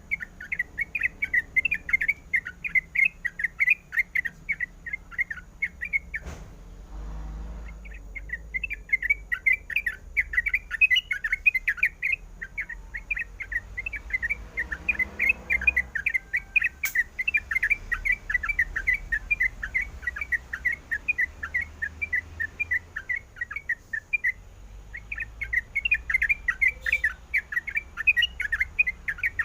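Sooty-headed bulbul chattering in fast runs of short chirps. It pauses briefly about a fifth of the way in and again near the end.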